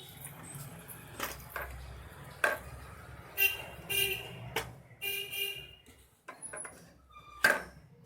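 Several sharp clicks and knocks of the Kärcher WD 3 wet-and-dry vacuum's plastic parts being handled and fitted together. A few short honking tones come in the middle.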